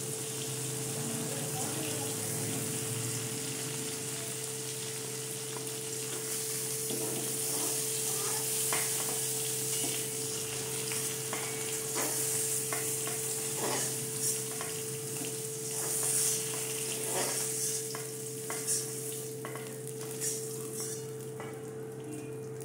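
Paneer cubes sizzling in hot mustard oil in a metal kadai, with scattered taps and scrapes of a metal spatula against the pan as the pieces are lifted out. A steady low hum runs underneath.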